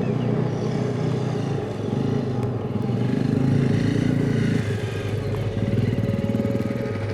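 Dual-sport motorcycle's single-cylinder engine running under changing throttle, its revs rising and falling a few times.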